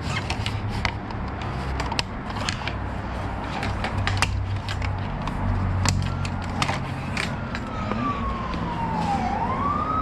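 Quick small clicks and knocks of motorcycle fairing panels and plastic push clips being handled and pried loose, over a low steady rumble. About two-thirds of the way in, a siren starts up, sliding down in pitch and then back up.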